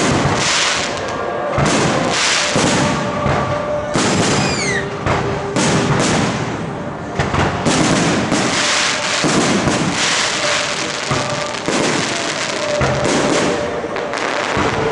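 Aerial firework shells bursting in quick succession, a continuous run of bangs and crackling, with a falling whistle about five seconds in.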